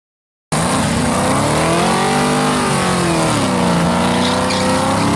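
A drag car's engine revving hard during a burnout, its pitch swinging up and down; it cuts in suddenly about half a second in.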